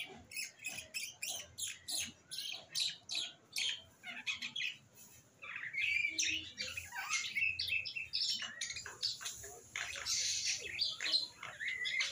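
Small birds chirping in quick repeated calls, about three a second, growing louder and busier from about halfway through.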